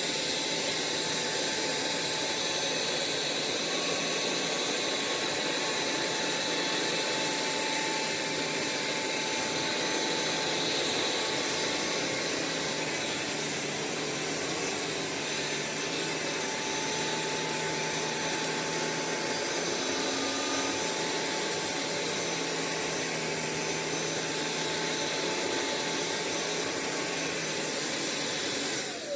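Sulean X8 cordless stick vacuum running steadily, its motor giving an even whooshing hum. Near the end it is switched off and the motor whine falls in pitch as it spins down.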